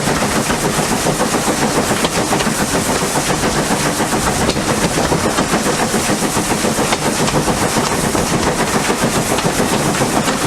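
Steam locomotive working hard, its exhaust beats coming in a rapid, even rhythm.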